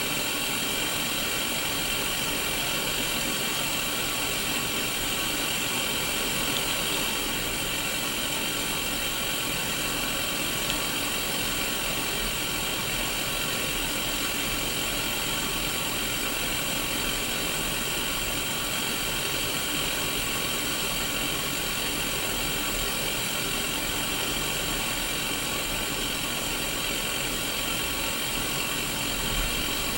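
Sony Mega Watchman black-and-white mini CRT television hissing with steady white-noise static, strongest in the upper middle, with faint steady tones and a low hum underneath.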